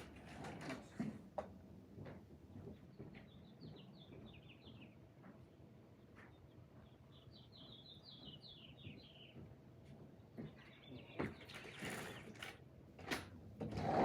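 A small songbird singing faintly in the background: two short runs of quick, high chirps, each about two seconds long and falling slightly in pitch, a few seconds apart. Scattered clicks and rustles of handling come before and after, with a louder rustle near the end.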